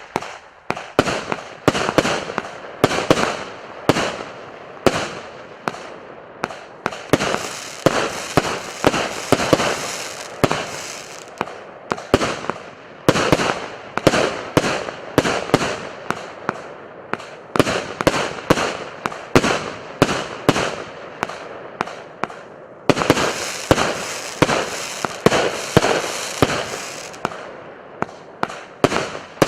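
A 48-shot, one-inch consumer firework cake firing its shots in quick succession, about two a second. Each sharp launch bang is followed by a crackling fizz from the bursting effects.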